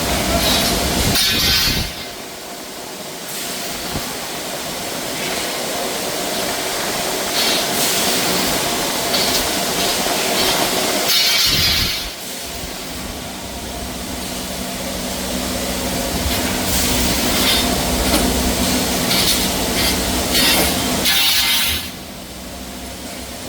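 Double-head CNC servo chamfering machine at work: a steady motor hum under a harsh metal-cutting hiss that builds over each cycle and drops off suddenly, three times, about ten seconds apart.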